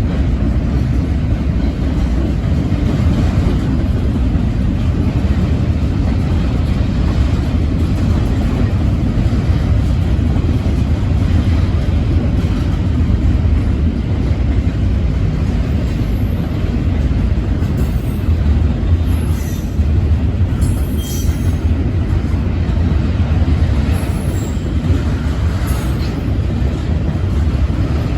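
Double-stack intermodal freight train rolling past with a steady rumble of wheels on rail. A few brief high-pitched squeals come through in the second half.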